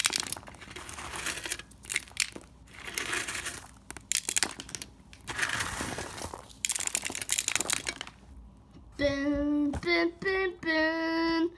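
Rustling and clattering of handled toy train trucks, in irregular bursts, as they are crashed. About nine seconds in come three held pitched notes, the last the longest.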